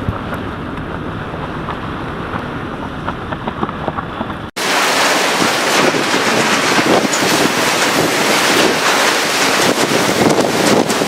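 Hurricane-force wind buffeting the microphone in a steady loud rush. About four and a half seconds in it cuts suddenly to a louder, brighter rush of wind.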